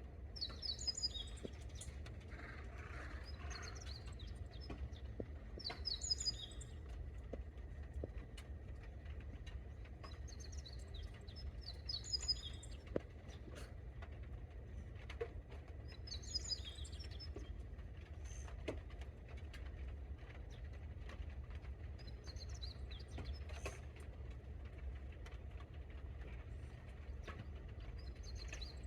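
A small songbird sings short, high, chirping phrases, repeated every few seconds. Scattered faint ticks of light rain and a steady low rumble run underneath.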